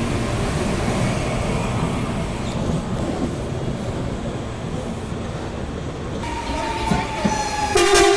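Commuter train running past with a steady rumble, then its horn sounding about six seconds in as one held tone that slowly drops in pitch, with a louder, fuller blast near the end.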